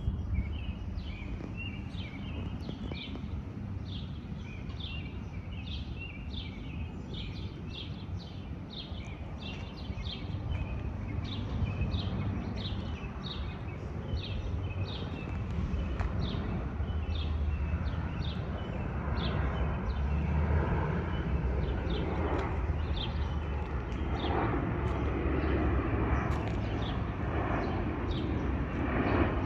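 A bird chirping over and over, about two to three short calls a second, over a steady low rumble. In the second half a landing airliner's jet noise grows louder as it approaches.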